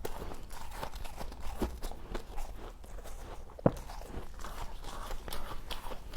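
Frost being bitten and chewed: dense, irregular crunching and crackling, with one sharp snap about three and a half seconds in.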